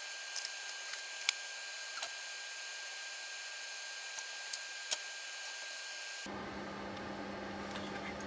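Steady hiss with a few short, sharp clicks and light taps, the loudest about a second in and again near five seconds.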